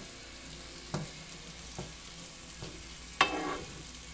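Meatballs of ground pork and beef sizzling steadily as they brown in an oiled skillet, with a few sharp clicks of metal tongs turning them and a louder ringing clack a little over three seconds in.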